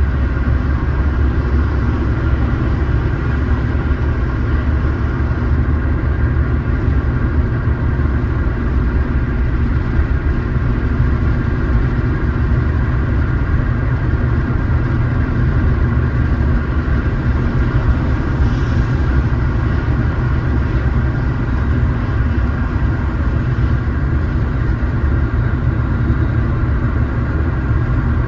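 Car driving at a steady speed: a steady low engine and road drone.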